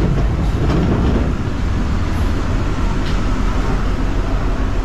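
Steady low rumble of vehicles in a city, with no single sound standing out.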